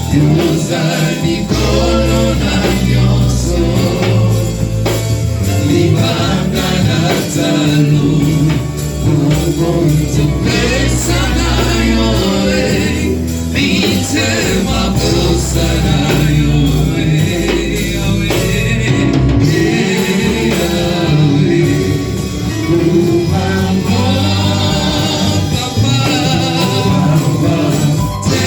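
Gospel singing by a group of voices over loud band music, with a deep bass line and a steady beat.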